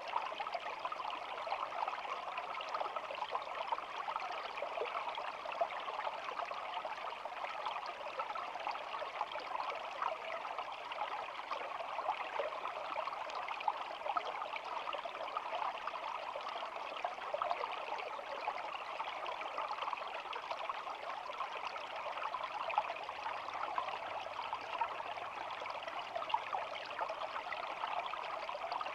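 Shallow brook babbling steadily: a dense, even trickle and splash of running water.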